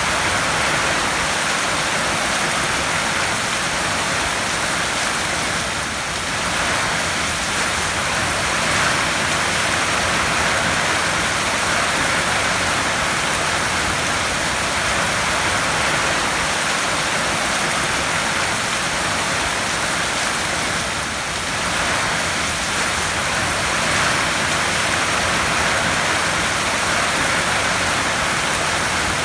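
Heavy rain falling on a tin roof: a loud, steady hiss of dense rain with no pauses.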